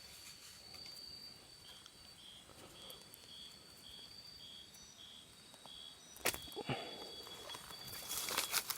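Outdoor night chorus of frog and insect calls: a steady high trill, with a short high note repeated about twice a second for a few seconds. A couple of sharp knocks about two-thirds of the way in, then rustling footsteps near the end.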